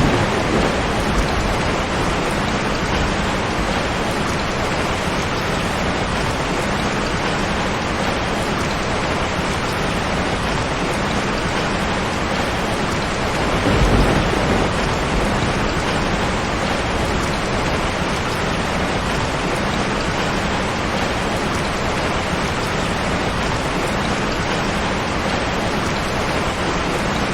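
Steady heavy rainfall, an even hiss, with low rumbles of thunder: one at the very start and another about halfway through.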